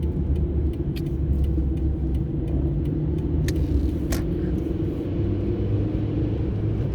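Steady low rumble of a car heard from inside the cabin while driving, with a few scattered sharp clicks.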